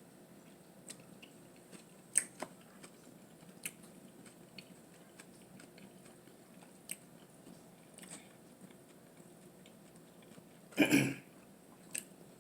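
Close-up chewing of a bite of chicken salad sandwich on wheat bread, with soft scattered mouth clicks. A short, louder mouth sound comes near the end.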